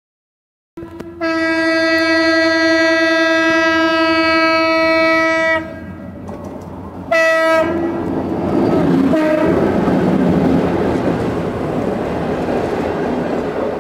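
EMD GT-22CW diesel-electric locomotive sounding its horn in one long blast of about four seconds, then a short blast, then passing close with its engine running and the passenger coaches rolling over the rails with a clickety-clack.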